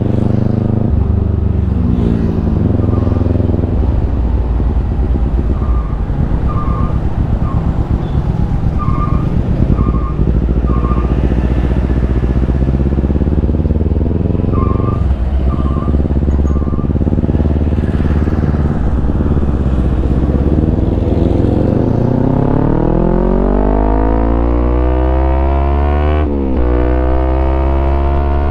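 Kawasaki Ninja 250's parallel-twin engine through a Yoshimura aftermarket exhaust, ridden at changing revs. About three-quarters of the way through it revs up steadily, dips sharply at a gear change and climbs again.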